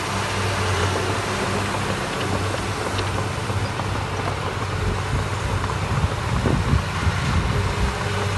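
Heavy diesel engine of construction machinery running steadily with a low hum, briefly louder and rougher about six and a half seconds in.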